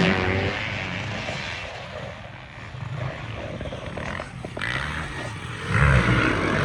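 Motocross race engines: a machine close by fades away, more distant engines rev up and down, then a loud one comes back close about six seconds in.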